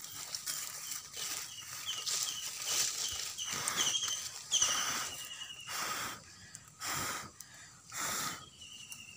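A small bird chirping in a quick series of short falling notes, about two to three a second, ending in one longer note near the end. Several short breathy whooshes come in between during the second half.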